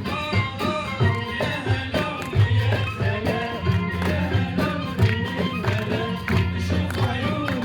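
Live band playing an Iraqi folk song, a winding Middle Eastern melody over a steady, bass-heavy drum beat.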